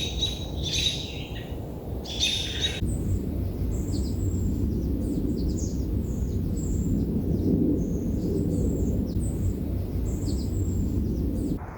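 Songbirds singing outdoors: strong repeated calls for the first three seconds, then many short, high chirps, all over a steady low rumble.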